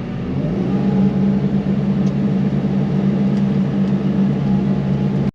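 Yanmar SV100 excavator's diesel engine running steadily, picking up speed about half a second in and then holding at the higher speed.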